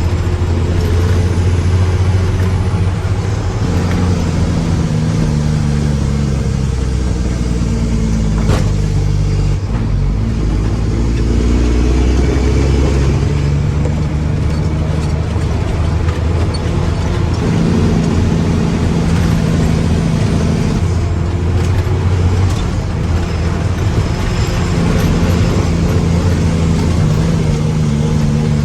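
Mack dump truck's diesel engine running under load, its pitch climbing in steps and falling back several times.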